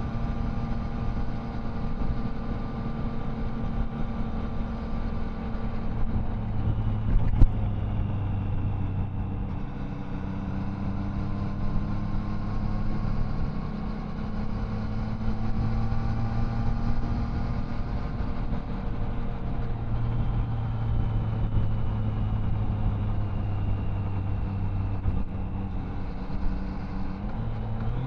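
Triumph Tiger Sport 660's three-cylinder engine and exhaust running at a steady cruise, the engine note drifting gently up and down with the throttle over a rush of wind and road noise. A single sharp click comes about seven seconds in, and the engine note steps up in pitch near the end.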